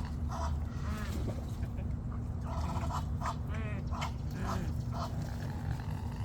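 Ducks quacking in a string of short calls, over a steady low hum.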